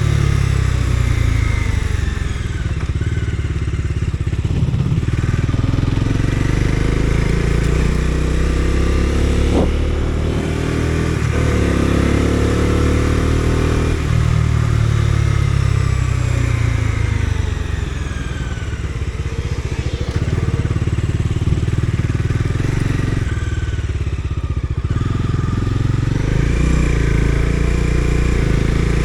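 Bajaj Dominar 250's single-cylinder engine under way, its pitch climbing with the throttle and dropping at gear changes and on easing off, several times over.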